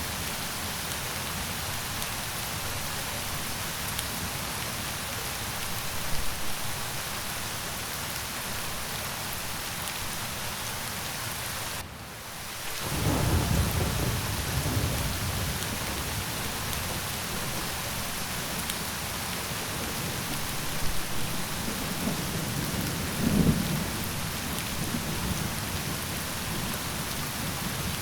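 Steady rain hiss with low thunder rumbling. The rain drops out for a moment about halfway through, just before a long rumble, and a second rumble swells near the end.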